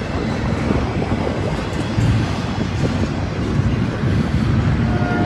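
Freight train rolling by with a steady low rumble, mixed with strong wind buffeting the microphone.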